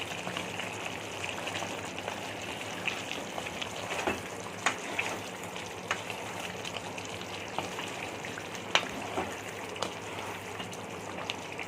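Chicken curry with tomato puree sizzling steadily in ghee in a pan, with scattered sharp clicks. The ghee has separated and floated to the top, the stage where the masala is cooked through.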